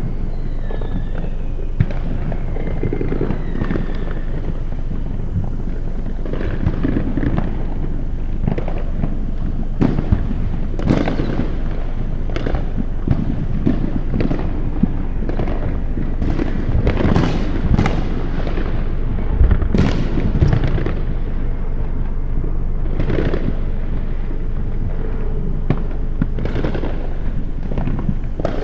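Fireworks going off all around: a continuous rumble of distant booms with frequent sharper bangs and crackles on top, loudest about two-thirds of the way through. In the first few seconds a few faint falling whistles sound.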